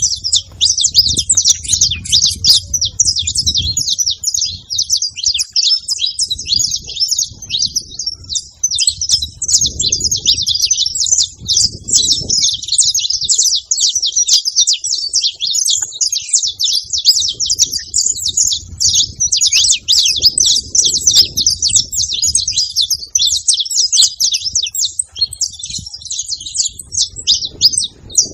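Saffron finch singing without a break, a fast, dense run of high, sharp chirping notes.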